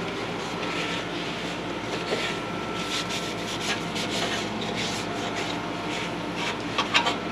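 Continuous rubbing and scraping on a dirty part, with a few sharper scrapes near the end.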